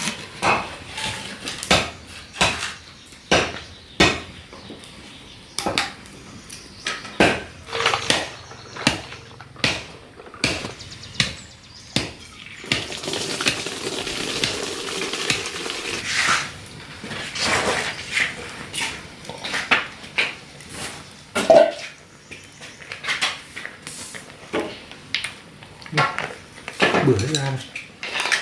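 Repeated clinks and clatter of dishes and eating utensils, short sharp knocks coming every second or so, with a few seconds of steady hiss near the middle.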